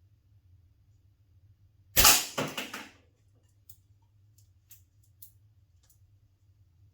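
A slingshot shot landing: a sharp crack about two seconds in as the ammo strikes the target, then about a second of rattling clatter, followed by a few faint ticks.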